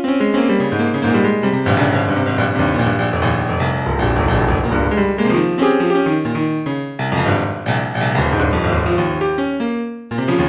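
Piano music playing, a run of notes with a short dip near the end.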